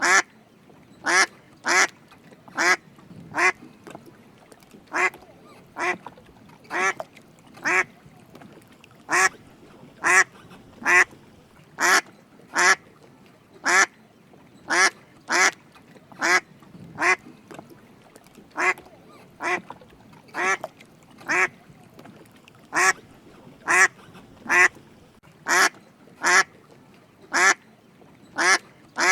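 Drake mallard giving short quacking calls over and over, a little more than one call a second, unevenly spaced, with brief pauses between them.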